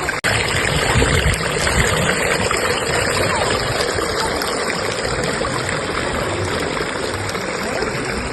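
Flowing river current: a steady, even rush of water. It cuts out for a split second just after the start.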